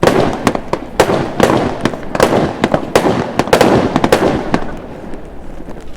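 Aerial fireworks going off in a rapid volley: a loud bang and then a quick run of sharp cracks and bangs that thins out and fades over the last second or two.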